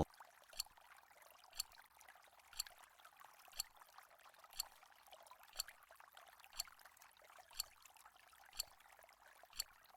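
Countdown timer ticking, one short click each second, ten ticks in all, over a faint steady hiss.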